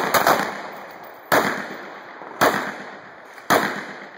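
Handgun shots from several shooters firing on command: a quick cluster of shots at the very start, then three single shots about a second apart, each trailing off in a long echo.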